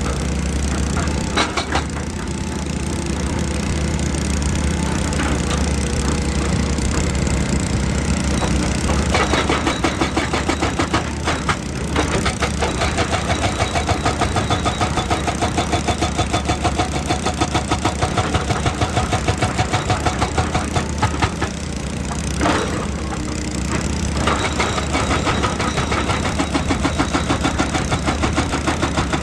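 Excavator diesel engine running steadily, with a rapid, even hammering about nine seconds in that runs until about 21 s, then starts again at about 24 s.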